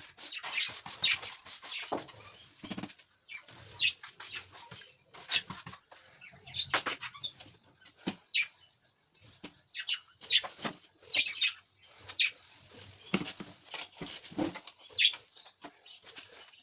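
Budgerigars flapping their wings and chirping in short, irregular bursts.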